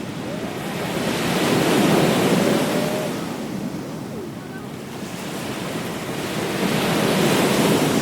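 Ocean waves breaking on a beach, the surf swelling and easing twice, with wind on the microphone.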